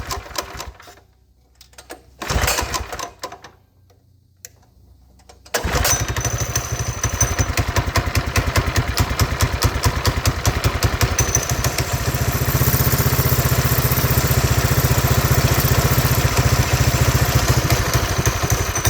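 Mini bike's small engine being started: a couple of short cranking bursts, then it catches about five and a half seconds in and runs steadily, a little louder from about twelve seconds in. It idles without the clutch engaging, now that the sticking clutch has been greased.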